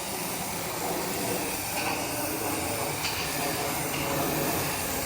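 Garden-hose foam gun spraying a steady jet of soapy foam and water onto a car's body, a continuous even hiss.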